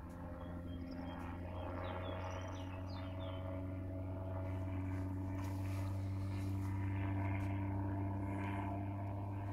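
A motor engine's steady low drone that grows slowly louder and rises a little in pitch. A few short bird chirps sound in the first seconds.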